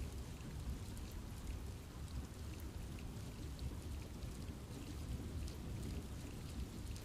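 Steady rain falling in a forest: a continuous low rush with many small separate drops ticking on leaves and surfaces.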